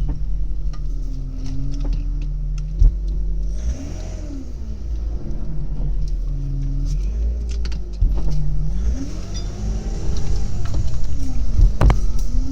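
BMW 323ci's 2.5-litre inline-six heard from inside the cabin while driving, a steady low drone whose pitch rises and falls a few times. There are scattered small clicks and knocks over it.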